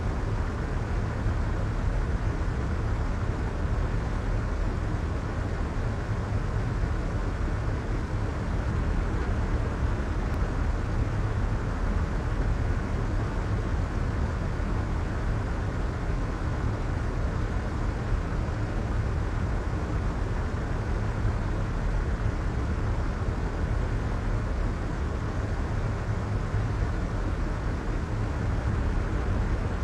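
Soft white noise: a steady, unchanging hiss weighted toward the low end, with a deep rumble under a softer top and nothing else.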